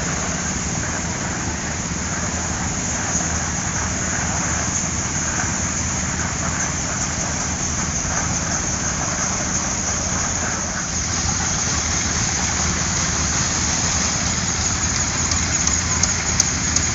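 Antique tractor engines running steadily as tractors pass by, under an even hiss, growing a little louder about two thirds of the way in.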